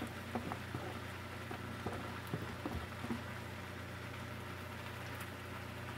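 Beef, onion and bell peppers sizzling in a frying pan over a steady low hum, with light taps and scrapes of a plastic spatula as the peppers are tipped in and pushed around, mostly in the first three seconds.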